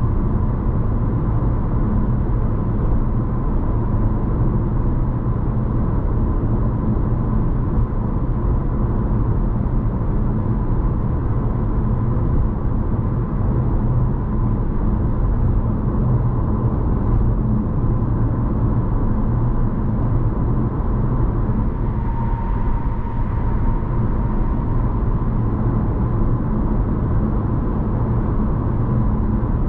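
Steady road and engine noise inside the cabin of a Honda ZR-V driving along: an even low drone with a faint steady high tone above it.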